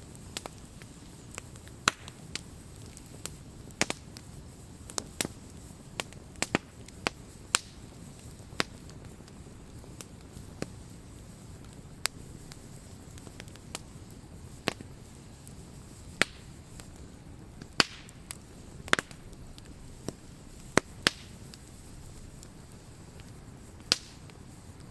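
Wood campfire crackling: irregular sharp pops and snaps, a few much louder than the rest, over a low steady rumble of burning.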